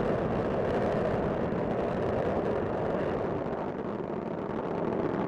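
Space Shuttle Discovery's solid rocket boosters and main engines climbing during ascent, about half a minute after liftoff: a steady, rough rumble with no breaks.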